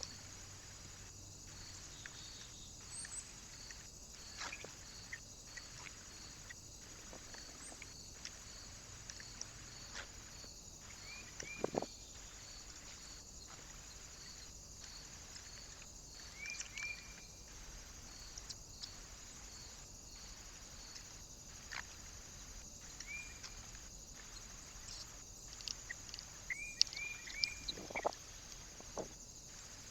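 Small birds at a feeder: scattered light taps and knocks, with a few short high chirps, several in a quick run near the end.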